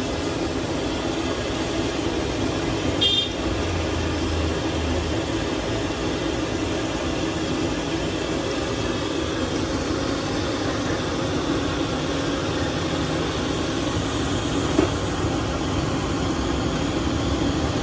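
Steady roadside traffic noise, with a short high vehicle horn toot about three seconds in and a single sharp knock near the end.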